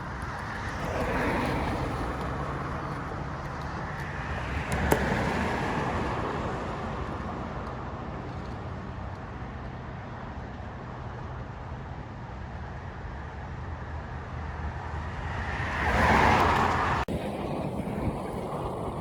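Road traffic: a steady hum with cars passing by, each swelling and fading, the loudest about sixteen seconds in.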